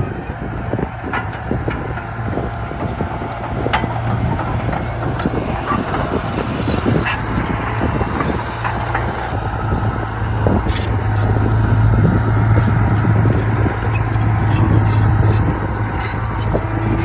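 Diesel engine of a Komatsu D31P bulldozer running steadily, with scattered short metallic clanks and squeaks as it works, coming more often in the second half.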